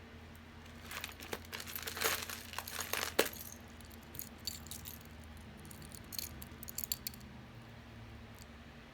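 Costume jewelry being handled: small clicks and clinks of metal and beads with some rustling, busiest between about one and three seconds in, then a few lighter clicks.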